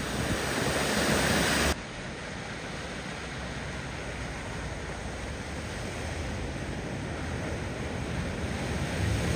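Rushing floodwater with wind on the microphone, a steady hiss. It cuts off abruptly about two seconds in and gives way to a quieter, similar rush that swells near the end.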